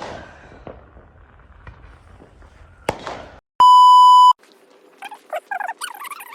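Two sharp firework bangs, one at the start and one about three seconds in, each trailing off in a short crackling hiss. Then a loud, steady electronic beep lasting under a second, followed by a sudden change to a faint hum with brief warbling sounds.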